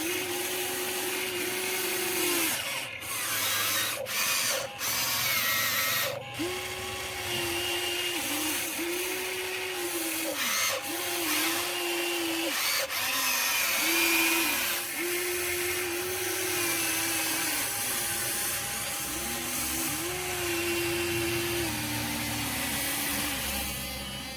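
Huina 1593 RC excavator's small electric motors whining in short runs, starting and stopping again and again as its controls are worked, with a gritty gear and motor noise underneath.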